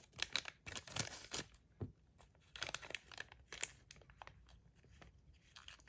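Plastic bags crinkling in irregular crackles as fidget spinners are slipped into them, busier in the first couple of seconds and sparser after.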